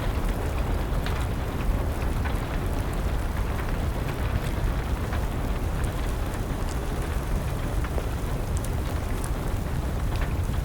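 Steady rain with a low rumble, and scattered sharp crackles and pops from a burning wood fire.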